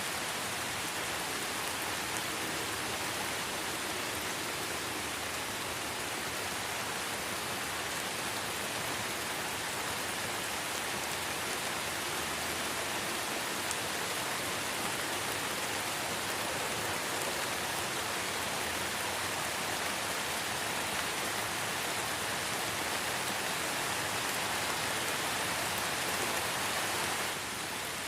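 Light rain falling steadily in a forest: an even hiss of many drops, with no single sound standing out. It dips slightly in level near the end.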